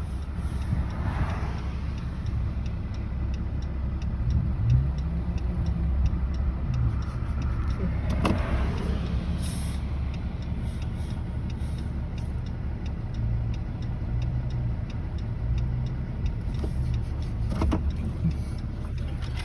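Truck engine running steadily, a low drone that shifts a little in pitch.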